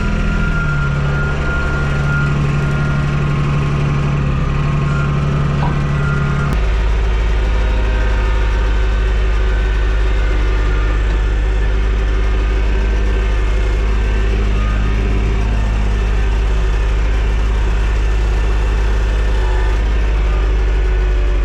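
TYM T224 subcompact tractor's three-cylinder diesel engine running steadily; about six seconds in its note changes abruptly and settles lower.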